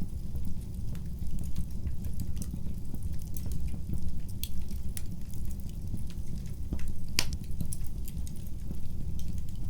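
Wood fire crackling in a fireplace: many small irregular pops and snaps over a steady low rumble of the flames, with one louder snap about seven seconds in.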